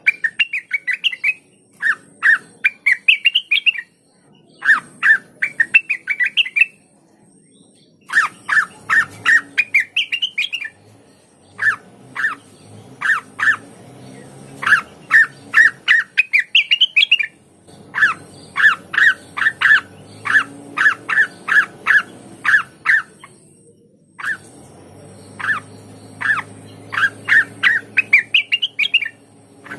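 Cucak wilis leafbird singing: phrases of sharp, rapidly repeated chirps that climb into a rising run of notes. Several phrases follow each other with brief pauses between.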